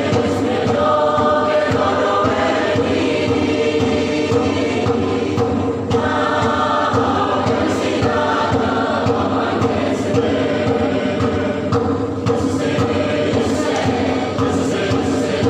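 A church choir singing a hymn together in sustained harmony.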